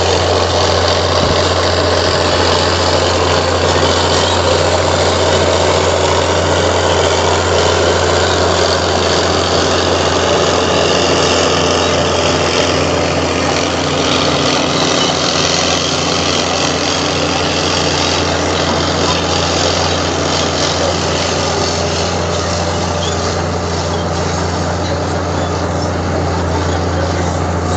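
Heavy diesel engine running steadily: a deep, constant drone under a broad wash of mechanical noise.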